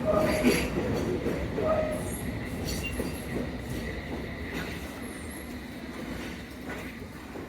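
Train running on rails with a low rumble and short high wheel squeals, growing gradually quieter.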